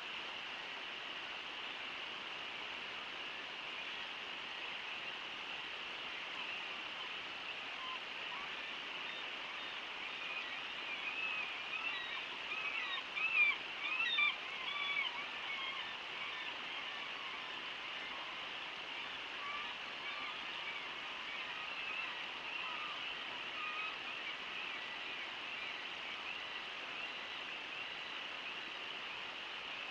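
Steady rush of the Brooks River waterfall, with a flurry of bird calls over it, busiest and loudest about halfway through.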